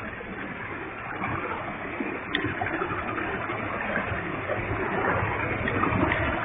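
Waterfall with a heavy flow of water, a steady rush of falling and splashing water that grows slightly louder over the stretch.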